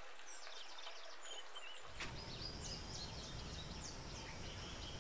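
Faint outdoor ambience with scattered bird chirps and short calls. About two seconds in, a low, even background noise comes in under them.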